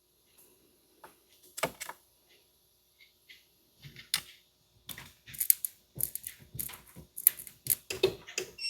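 Irregular metallic clicks and clatter of hand tools on a truck's battery cable eyelet and terminal, sparse at first, then in dense clusters. At the very end comes a short electronic tone as power returns to the fuse panel once the positive cable eyelet is cleaned.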